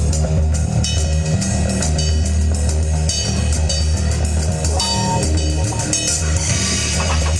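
Live rock band playing an instrumental passage with drum kit, electric guitar and bass guitar; a steady heavy bass line runs under regular drum and cymbal hits.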